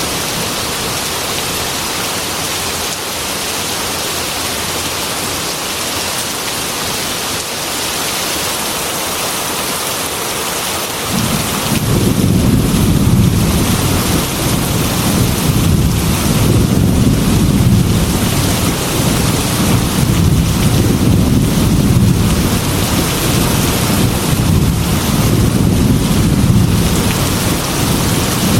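Heavy rain falling steadily on a metal roof, a constant hiss. About a third of the way in, a long low rumble of thunder sets in and keeps rolling under the rain.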